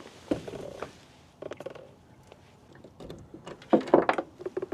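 Irregular knocks, clicks and rustling from hands and gear handling a freshly caught catfish, busiest in the last second and a half.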